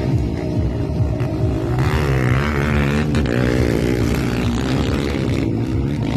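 Honda CRF150 dirt bike's single-cylinder four-stroke engine running while riding, its pitch wavering up and down with the throttle, growing louder and brighter for a second or so about two seconds in.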